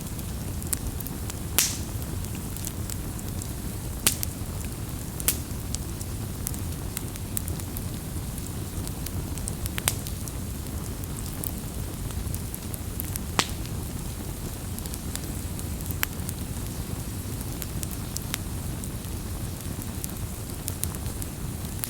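Wood fire crackling: a steady low roar of flames with irregular sharp pops and snaps, a few standing out louder.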